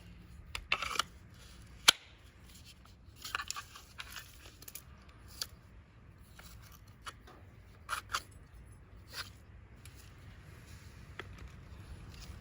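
Dry wood crackling and snapping in irregular bursts, with one sharp snap about two seconds in.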